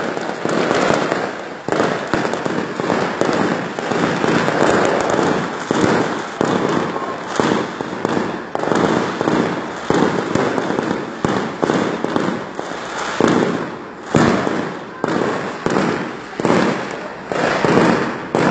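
Aerial fireworks shells bursting in a dense barrage of bangs and crackling with no let-up; the separate bangs stand out more clearly in the second half.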